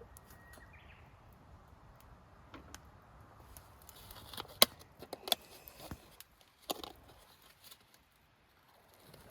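A few sharp clicks and knocks, the loudest about halfway through, over a faint outdoor background with a short faint whistle near the start.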